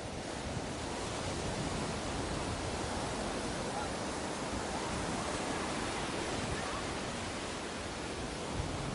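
Ocean surf washing onto a beach: a steady wash of breaking waves that swells slightly partway through and eases again.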